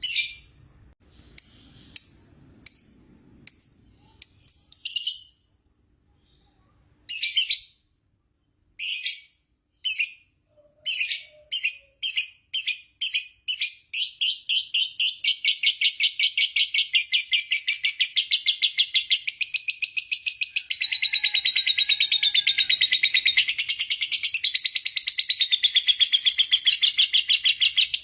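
Lovebird giving shrill chirps, at first single and spaced with a short pause, then quickening from about ten seconds in and running together at about halfway into one unbroken, rapid chattering trill: the long 'ngekek' song that lovebird keepers prize.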